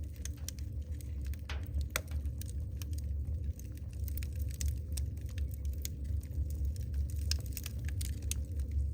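Wood logs burning in a fireplace: frequent irregular crackles and pops over a steady low rumble of the fire.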